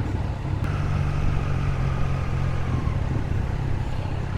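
Triumph Trident 660's three-cylinder engine running as the motorcycle is ridden. Its note strengthens about a second in with a slightly falling pitch, then eases back just before three seconds in.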